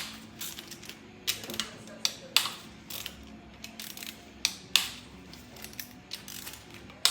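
Hand tools on the 5.7 Hemi's rocker shafts as they are unbolted: scattered sharp metal clicks and clinks at irregular intervals.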